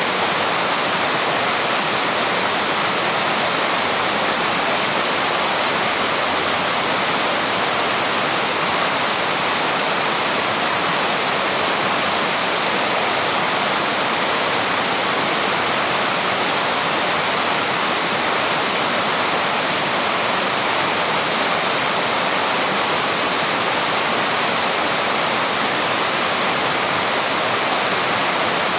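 Small waterfall rushing steadily: a dense, unchanging wash of falling water.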